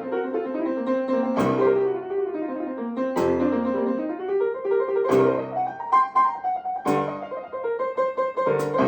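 Piano playing: chords with running melodic lines between them, a hard-struck attack about every two seconds.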